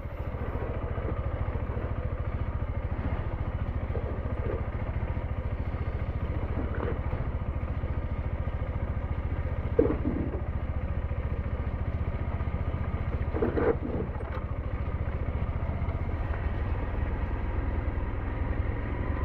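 SYM NHT 200 motorcycle engine running steadily, its pitch holding even, with no revving.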